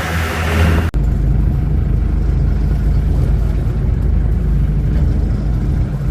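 Fishing boat engine running with a steady low rumble. In the first second a brighter, noisier sound plays, then cuts off suddenly.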